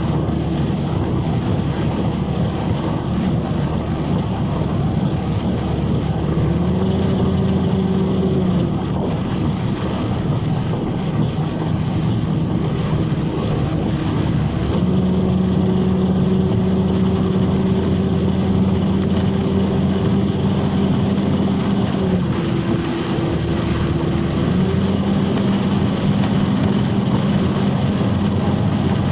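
A vehicle driving in heavy rain, recorded from inside the cab: a steady wash of rain and road noise, with the engine's drone stepping up and down in pitch several times as the speed changes.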